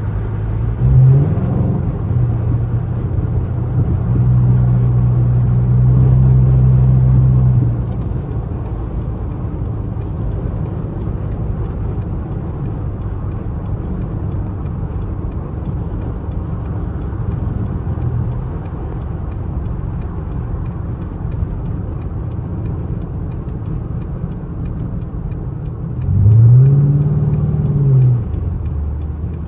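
Straight-piped Chrysler 300C's Hemi V8 exhaust rumbling steadily at low revs. There is a short rev about a second in and a louder pull of a few seconds soon after. Near the end a rev rises and falls back.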